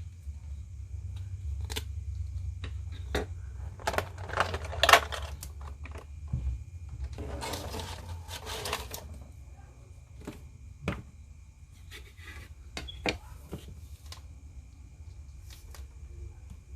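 Hands handling a plastic-packaged action figure set: scattered plastic clicks and taps, a rustle about four to five seconds in and a longer rustle around seven to nine seconds in, over a low steady hum.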